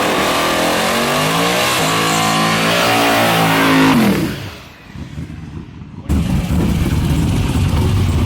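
Drag car engine accelerating hard, its pitch climbing for about three seconds before fading away. After a short lull, a loud low engine rumble cuts in suddenly about six seconds in.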